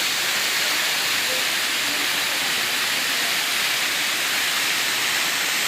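Rushing water of the Cascada Irigoyen waterfall: a steady, even hiss, strongest in the highs.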